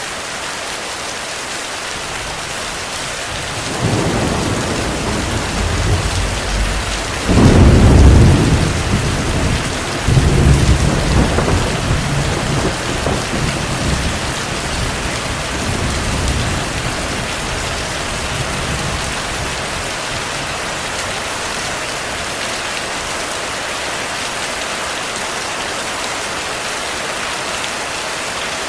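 Steady heavy rain with a long roll of thunder: the rumble builds about four seconds in, peaks twice in quick succession, then dies away over several seconds while the rain carries on.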